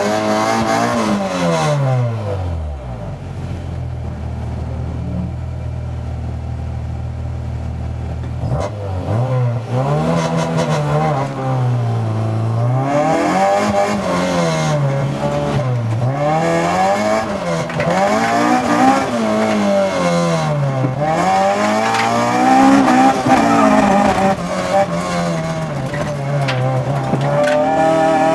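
Honda Civic's B18 four-cylinder engine heard from inside the cabin. The revs drop to a steady idle for several seconds, then from about a third of the way in they rise and fall again and again, every second or two, as the car is driven.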